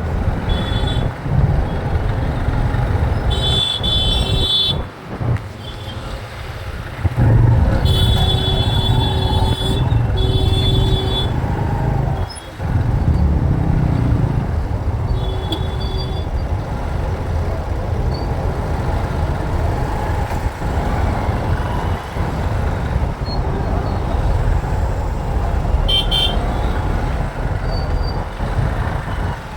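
Road traffic heard from a moving motorbike: a steady low rumble with vehicle horns honking several times. There is a short honk about three seconds in, two longer honks around eight and ten seconds, and brief toots around fifteen and twenty-six seconds.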